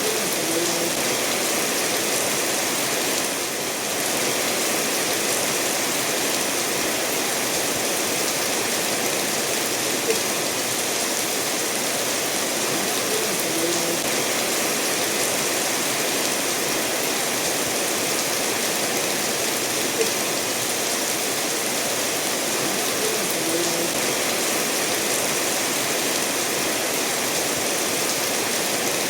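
Steady rain falling together with a stream running over stones, an even hiss of water. A few faint short plinks stand out about every ten seconds.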